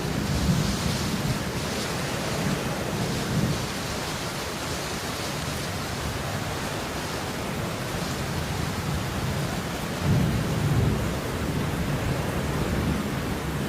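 Steady falling rain, an even hiss, with low rumbling swells in the first few seconds and again about ten seconds in.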